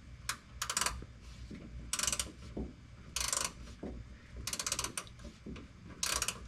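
Hand ratchet wrench being worked on a bolt: six short bursts of rapid ratchet clicks, one stroke about every second or so.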